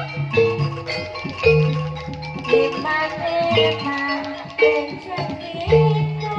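Javanese jaranan gamelan music: struck metallophones ringing in a repeating melodic pattern over low drum beats about once a second.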